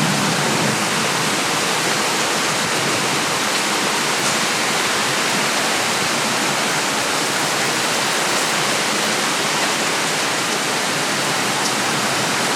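Heavy rain pouring down in a steady, dense hiss of downpour, with no thunder.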